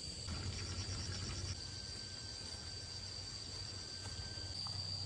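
Steady, high-pitched insect trill over a faint low hum, with a few light clicks near the end.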